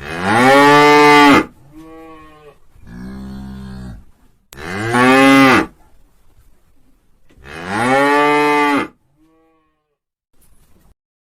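Cow mooing: three long, loud moos that rise and fall in pitch, with quieter, shorter lows between the first two.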